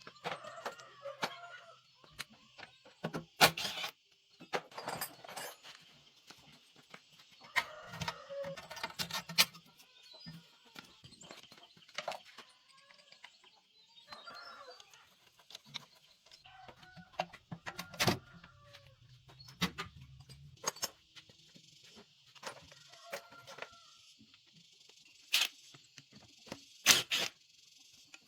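Chickens clucking now and then, among scattered sharp clicks and knocks, over a steady high hiss.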